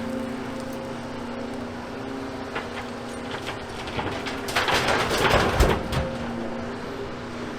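A Volvo excavator's diesel engine runs steadily. Around the middle, a loud crash and clatter of demolition rubble lasts about a second and a half.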